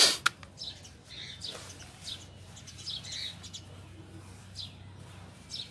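Two sharp knocks right at the start, then birds chirping in short, scattered calls over a faint steady hum.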